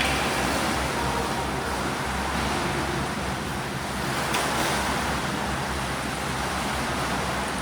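Steady rush of churning, splashing water from swimmers doing breaststroke drills in a pool.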